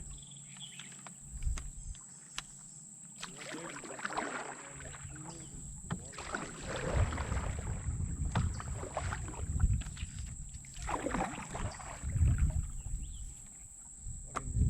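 Canoe paddle strokes in river water, each a swishing splash; the longest come about 4, 7 and 11 seconds in, with short knocks between them.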